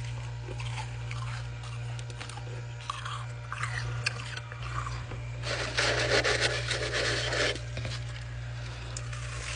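Ice being chewed and crunched: scattered crackles, then a stretch of dense, louder crunching from about halfway through for two seconds.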